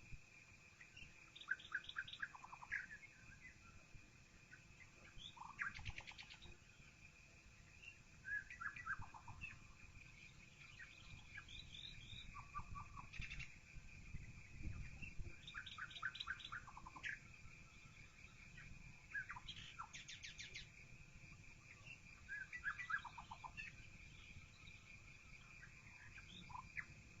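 Songbirds singing faintly in short chirping phrases that come every two to three seconds, with a steady high thin whine underneath.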